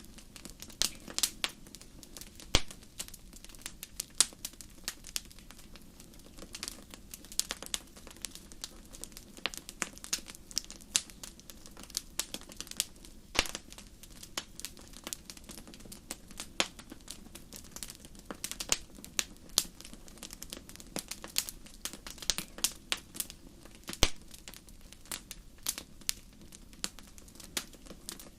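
Wood fire burning in a fireplace: irregular crackling, several snaps a second, with a few louder pops, over a low steady rumble of the flames.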